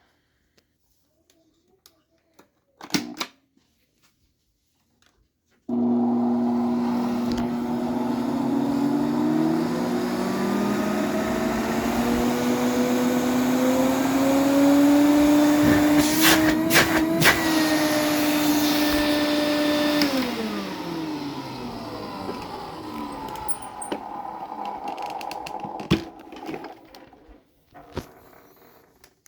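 AEG Vampyr 406 canister vacuum cleaner switched on about six seconds in, its motor whine rising in pitch as it spins up, with a few sharp clicks midway. It is switched off about twenty seconds in and the motor winds down with a falling pitch over several seconds.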